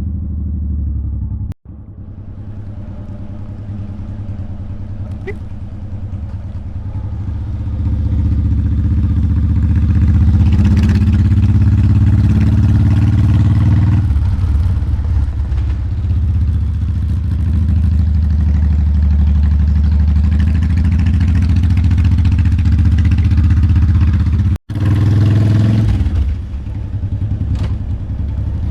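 Motorcycle engine running under way. It builds in level over the first several seconds as the bike picks up speed, then holds a steady note. It breaks off abruptly twice.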